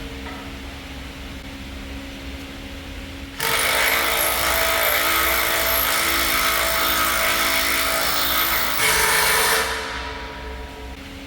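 A power tool starts abruptly about three seconds in and runs loudly for about six seconds before winding down, over a steady low machine hum.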